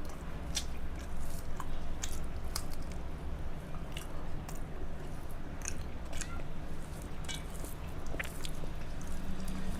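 A person chewing mouthfuls of rice and vorta, with scattered short wet mouth clicks over a steady low hum.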